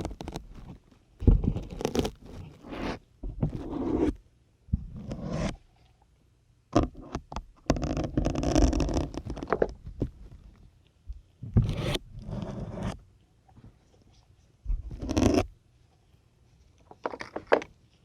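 Syringes pushed one after another into a dense grey sponge, each push a short crunching, squeaky scrape. There are about ten pushes at irregular intervals, with brief quiet gaps between them.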